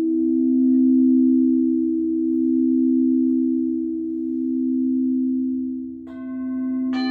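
Singing bowl ringing with a slow wavering pulse in its low hum. About six seconds in, another bowl is struck with a brighter ring.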